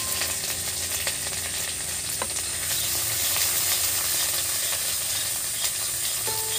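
Cumin seeds and chopped ginger sizzling in hot soybean oil in a kadai, stirred with a metal spatula, with a few light clicks from the spatula against the pan.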